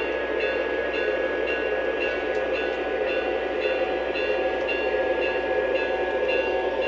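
Model train running along the layout track: a steady motor and wheel hum with a thin whine, and a light click about twice a second.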